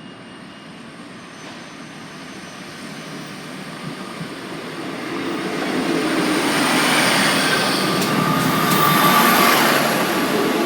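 Class 158 diesel multiple unit approaching and passing, its running noise growing louder over the first six seconds and then staying loud.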